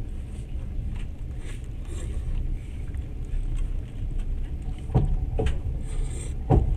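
Passenger train running on the rails, heard from inside the carriage as a steady low rumble, with a few sharp knocks in the second half.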